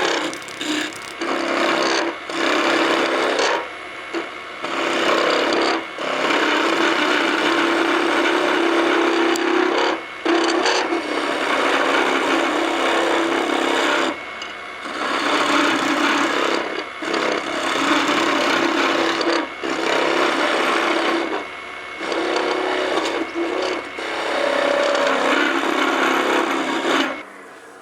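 Skew chisel cutting a hickory spindle spinning on a wood lathe: a rough scraping of steel on wood in repeated passes with short pauses between, over the lathe's steady hum. It stops near the end.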